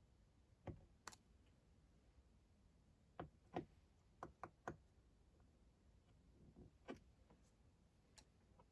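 Near-quiet, with scattered light clicks and taps from carburettor parts and hand tools being handled: about eight in all, several in quick succession around the middle.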